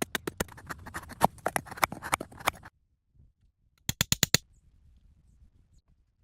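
A quick, even run of sharp clicks or taps, about six or seven a second, that stops abruptly a little before the middle; about a second later comes a short burst of fast, bright clicks.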